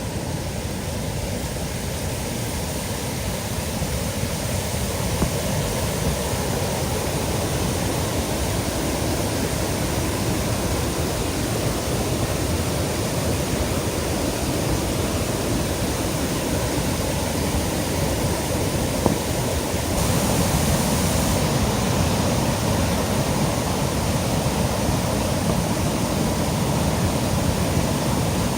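Kinu River in typhoon flood, its water rushing in a steady, dense noise that gets a little louder about two-thirds of the way through.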